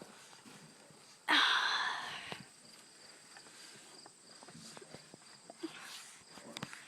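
Footsteps outdoors against a steady high insect chirring. About a second in, a loud rustling noise lasts about a second, then fades.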